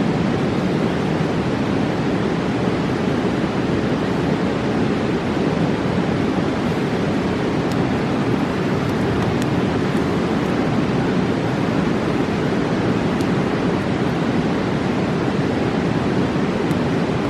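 Fast mountain river rushing in a steady, loud roar, with a few faint sharp pops from a campfire now and then.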